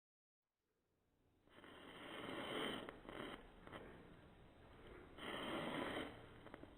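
Indoor firework fizzing and crackling faintly. It swells twice, about two seconds in and again near the end.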